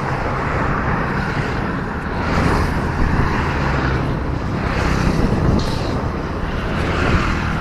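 Steady traffic and road noise heard while riding a bicycle along a busy road, swelling three times as motor vehicles pass.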